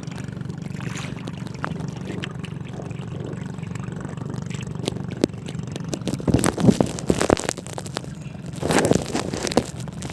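A boat engine running steadily. In the second half come loud, irregular bursts of water splashing and scraping, as the hooked dogtooth tuna is brought up to the boat.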